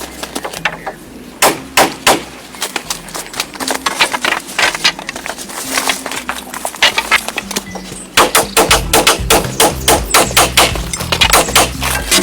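Repeated sharp strikes on wood, as from chopping or hammering timber. They come in quick, regular succession from about eight seconds in.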